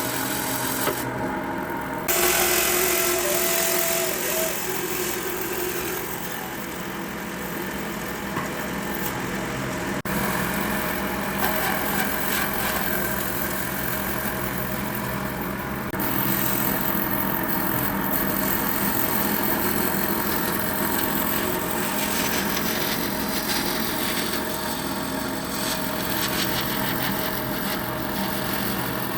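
Wood being worked with power tools, a continuous rasping, sawing kind of noise with a motor running under it, whose character changes abruptly a few times.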